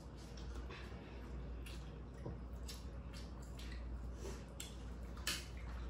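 Eating sounds: wet, squishy chewing of noodles and fried food in short, irregular bursts, with a sharper click about five seconds in.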